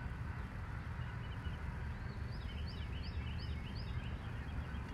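A bird singing a quick run of short, falling chirps, about three a second, for a couple of seconds in the middle. Under it, a steady low rumble of wind on the microphone.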